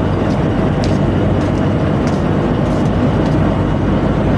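Heavy machinery aboard a tugboat running steadily: a constant deep hum under a loud, even noise.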